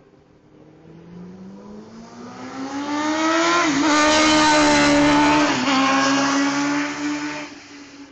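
Superbike racing past at full throttle: the engine note climbs and grows loud, dips briefly twice, then fades as the bike moves away.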